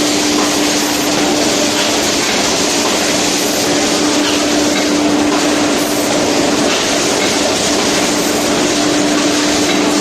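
Automatic aluminium foil container making machine running: a steady, loud mechanical noise with a constant hum that drops out briefly about two-thirds of the way through.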